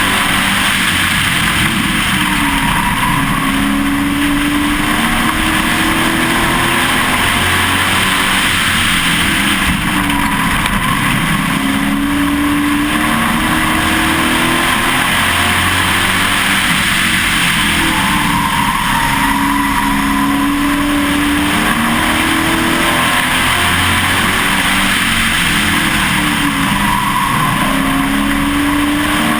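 Pro Truck stock-car engine heard from inside the cab at racing speed. It revs up on each straightaway and drops off into the corners, about every eight seconds, over a constant rush of noise.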